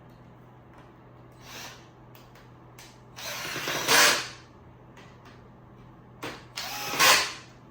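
Power drill driving screws through countersunk holes into the platform's panels, in two short runs about three seconds apart, each getting louder toward its end, with a few light knocks around them.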